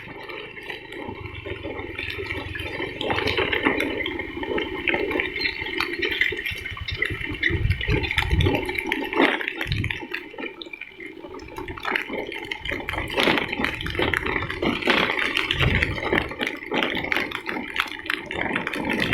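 Rushing, splashing water, a continuous noisy rush broken by many irregular taps and knocks.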